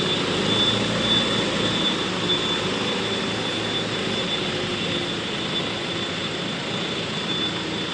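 Toy forklift giving a steady engine-like whirring with a thin, high, constant whine over it.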